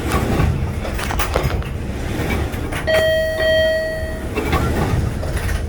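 Subway car's door chime sounds once, a steady electronic tone about a second long starting about three seconds in, over the steady rumble and scattered knocks of the train car.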